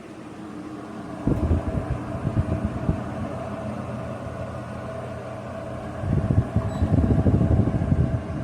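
Bosch Cool 2000 portable air conditioner running, a steady fan hum with a faint steady tone. Two spells of louder, uneven low rumbling come in, about a second in and again about six seconds in.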